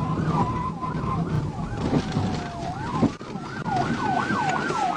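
Police car sirens in a pursuit: a slow wail that falls, climbs and falls again, layered with a fast yelp sweeping up and down about three times a second, over the vehicle's running noise.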